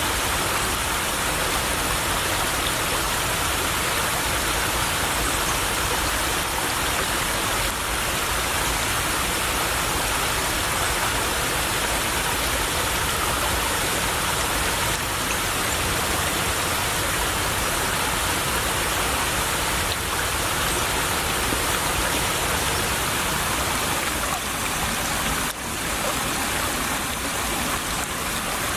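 A small stream trickling and flowing: a steady, even rush of running water, briefly dipping once near the end.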